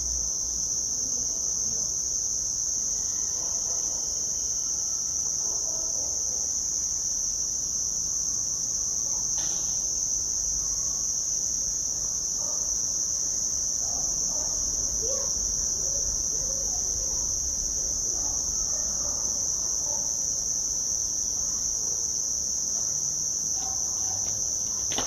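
Night chorus of crickets: a steady, unbroken high-pitched trill.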